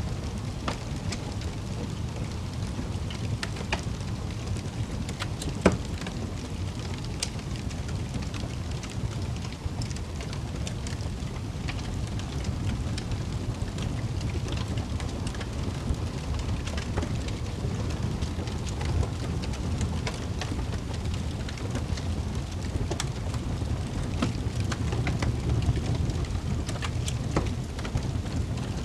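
Wood fire crackling in a fireplace: a steady low rumble of flames with scattered snaps and pops, one louder pop about six seconds in.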